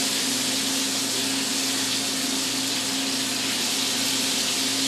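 Bacon sizzling steadily as it fries in a pan, with a steady low hum underneath.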